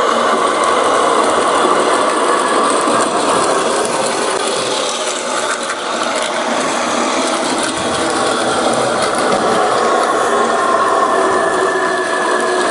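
Battery-powered Plarail toy train running on plastic track: a steady whirring of its small motor and gearbox with clattering wheels, unchanging throughout.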